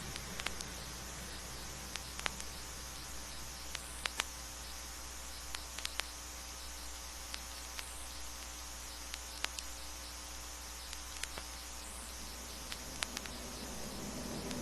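Vinyl record surface noise in the blank groove between tracks: a steady hiss and low hum with scattered crackles and clicks.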